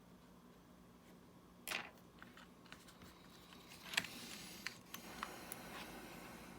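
Faint clicks and scrapes of small hand tools and parts being handled during a smartwatch repair. The sharpest click comes about four seconds in, followed by rustling and a few lighter clicks, over a low steady hum.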